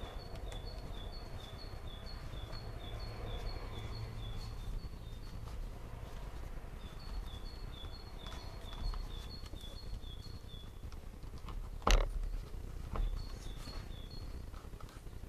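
A bird chirping in the background, short high notes on two alternating pitches repeated quickly and evenly in runs of several seconds, over light rustling of hands handling a dashboard panel. One sharp knock about twelve seconds in is the loudest sound.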